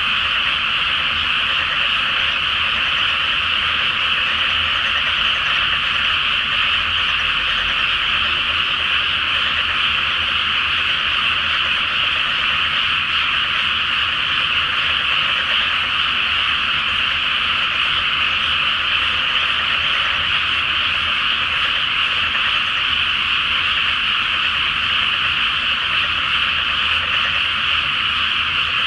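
A large chorus of frogs in a flooded rice paddy: many croaking calls overlapping into one dense, steady, high-pitched wall of sound, with no single call standing out.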